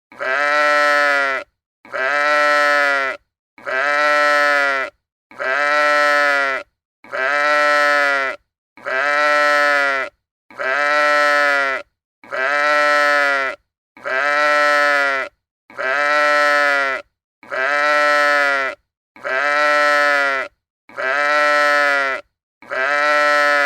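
A farm animal's bleat, the very same call repeated about fourteen times, roughly one every 1.7 seconds with brief silences between. Each call lasts a little over a second and rises then falls in pitch.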